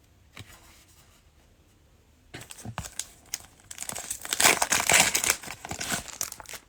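Plastic cellophane wrapper of a trading-card cello pack crinkling and tearing as the pack is opened, starting about two seconds in and loudest a little past the middle.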